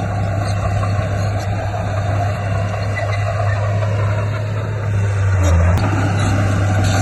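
Heavy diesel engine of earthmoving equipment running steadily with a deep, even drone; the drone briefly shifts about five and a half seconds in.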